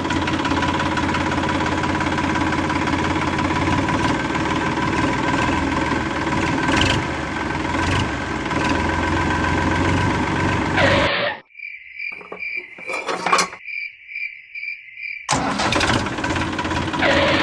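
A small motor running steadily with a mechanical whirr. About 11 seconds in it stops suddenly and a high electronic beeper pulses rapidly for about four seconds, then the motor noise comes back.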